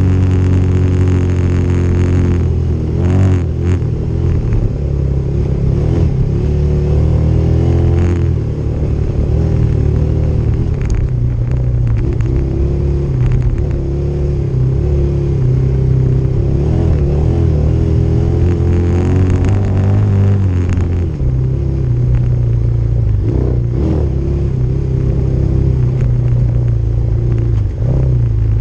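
Motorcycle engine running while ridden along a dirt trail, its pitch holding steady at times and rising and falling with throttle and gear changes, with a few short knocks along the way.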